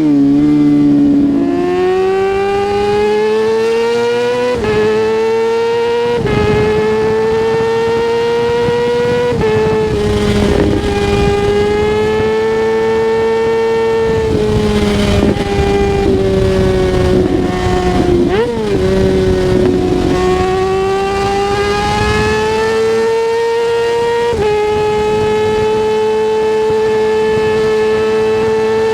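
Kawasaki ZX-6R 636's inline-four engine running hard, its pitch climbing and stepping several times as it pulls through the gears. About two-thirds of the way through there is one quick blip up and back down.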